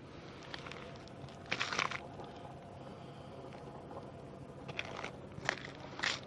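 Short crunching noises over a low steady background: one longer crunch about one and a half seconds in, then three shorter ones near the end.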